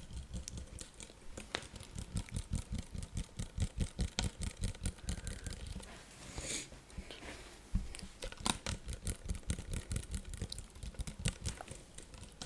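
Fast, rapid tapping on a bottle of micellar water, many light taps a second, with a brief scratchy rustle about six seconds in and a sharper knock just after.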